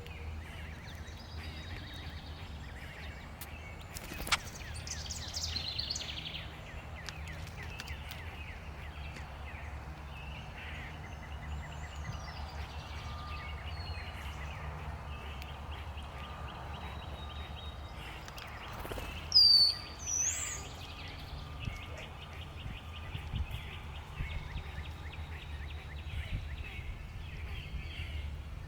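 Backyard outdoor ambience: a steady low rumble under scattered chirps and calls of feeder birds. The loudest is a pair of sharp high calls about two-thirds of the way through, with a single click about four seconds in.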